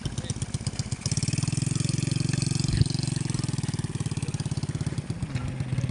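A small engine idling with a steady, rapid pulse, and a single sharp knock about three seconds in.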